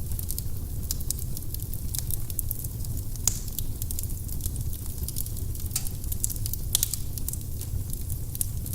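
Firewood burning in a fireplace: a steady low rumble of flames with irregular sharp crackles and pops, the loudest a little after three seconds in and again near seven seconds.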